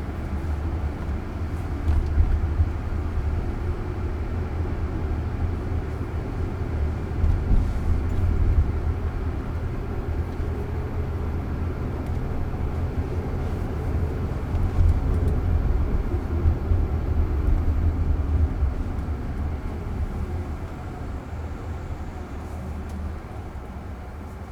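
Road and tyre noise heard inside the cabin of a Waymo robotaxi, an electric Jaguar I-Pace, as it drives along: a steady low rumble with a few faint clicks. It grows quieter over the last few seconds.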